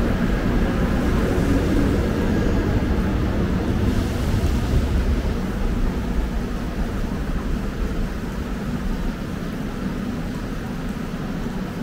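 Train rumbling through a subway station, a steady low rumble that eases off somewhat after about six seconds.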